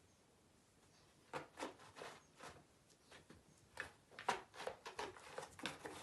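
Irregular series of short, soft knocks and rustles, about a dozen, starting a little over a second in: a pet playing with a squeaky toy mouse, handling and biting it without making it squeak.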